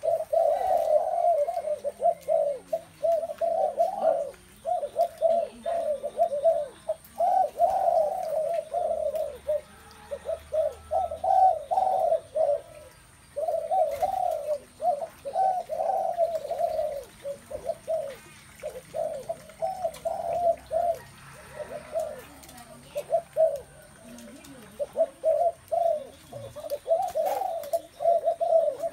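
Spotted doves cooing phrase after phrase with only brief gaps, several birds calling in turn.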